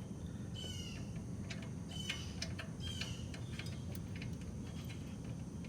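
Birds chirping a few times in short high calls over a low steady hum, with faint light clicks scattered through.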